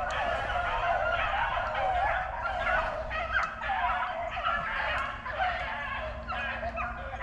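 A pack of rabbit-hunting dogs baying in full cry while running a rabbit, many voices overlapping continuously.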